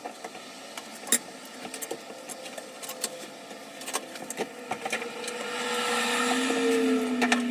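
A small motor running with a steady tone that slowly drops in pitch, joined by a lower tone and a swell of hiss over the last couple of seconds, among scattered clicks and knocks.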